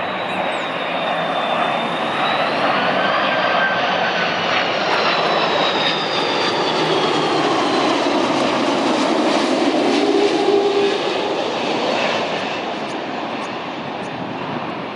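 Heavy jet airliner on approach to land, passing by with a loud engine roar and a high whine that bends in pitch as it goes past. The noise swells, peaks past the middle, then fades away near the end.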